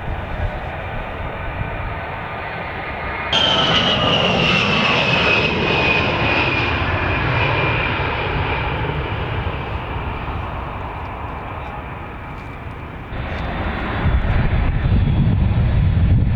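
Jet aircraft engine noise: a steady rumble, then a high whine that slowly drops in pitch. The sound changes abruptly about three seconds in and again near the end.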